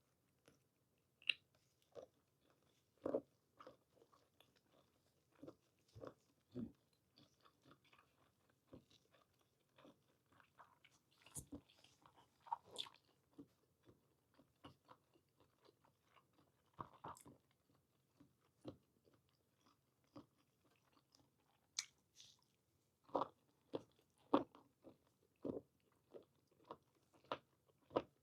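A person chewing and biting boiled whole squid with blanched scallions, close to the microphone: quiet, irregular wet mouth clicks and smacks, a little busier near the end.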